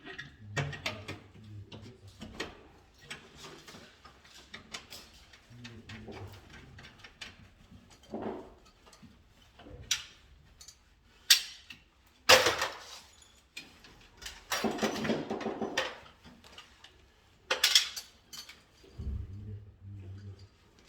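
Irregular clicks, knocks and metallic clinks of hand tools and small parts being handled during electrical wiring work. There are a few louder strikes around the middle and a longer rattling scrape about two-thirds of the way through.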